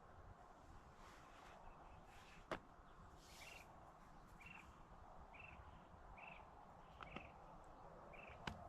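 A bird repeating a short, high call about once a second over faint outdoor background. A few sharp clicks come through, the loudest about two and a half seconds in.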